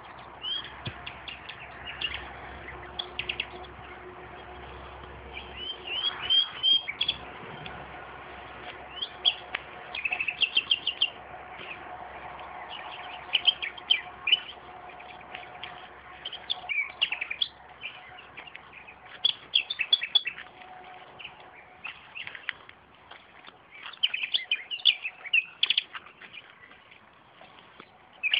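Two nightingales singing against each other, phrase after phrase of rapid repeated notes and clear whistles with short pauses between phrases.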